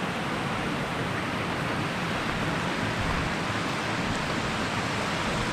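Steady rushing of creek water running over rock and through pools in a slot canyon.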